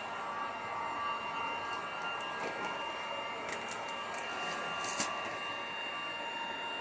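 Electric heat gun running steadily, a fan noise with a thin whine, used to warm peel-and-stick floor tiles. A few light crackles come in the middle, with a small tap about five seconds in.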